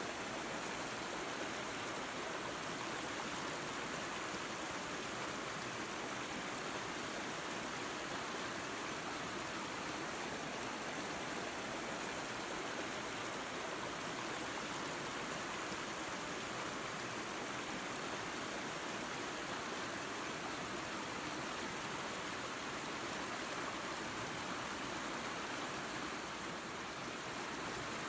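Waterfall and creek water rushing steadily: an even hiss of running water with little low end, unchanging throughout.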